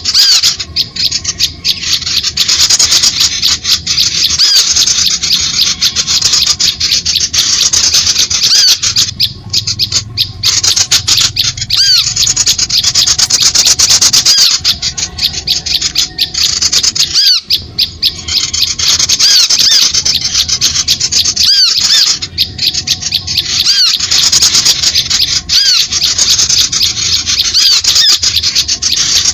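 Recorded lure call of small birds: a dense, high-pitched stream of rapid harsh chattering and squeaky notes, broken by brief gaps every few seconds.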